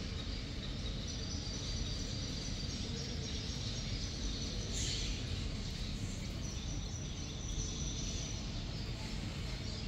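Outdoor garden ambience: a steady low rumble with thin, high, long-held trills coming and going above it, and a brief hiss about halfway through.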